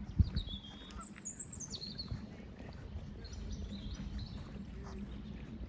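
Small songbirds chirping in short, quick high notes that drop in pitch, over a steady low outdoor rumble. A single brief low thump comes just after the start.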